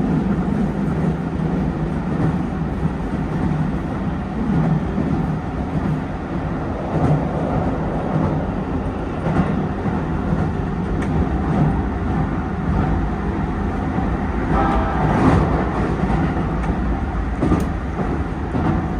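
Keisei 3000 series electric train running at speed, heard from inside the leading car: a steady rolling rumble and traction noise, with a few knocks from the rails.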